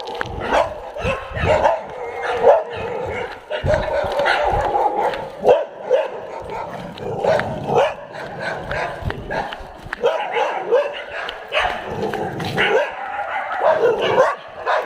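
Several dogs barking and yipping, with many short calls overlapping one another throughout.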